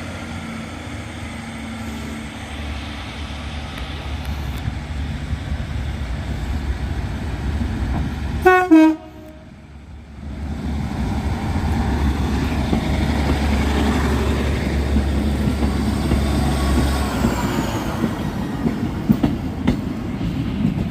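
Class 150 diesel multiple unit idling at the platform, then giving a short horn toot about eight and a half seconds in. From about ten seconds in, its diesel engines run louder as it pulls away.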